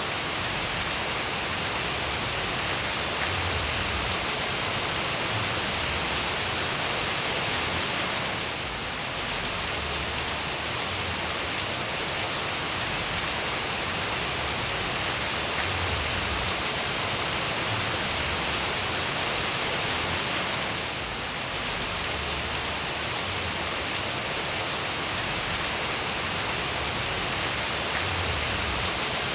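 Steady rain falling, an even hiss of many drops, that briefly softens twice, about a third of the way in and again about two-thirds through.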